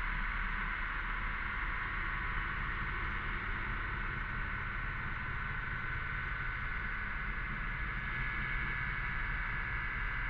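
Cicadas buzzing in a steady, continuous chorus, with a low rumble underneath.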